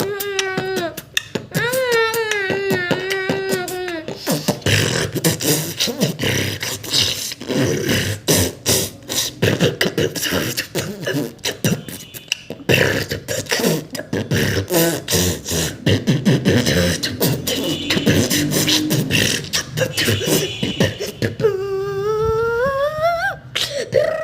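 A person beatboxing with the mouth and throat: a fast, continuous run of vocal clicks and percussive hits. A wavering hummed or sung tone comes in near the start, and a rising vocal glide comes in near the end.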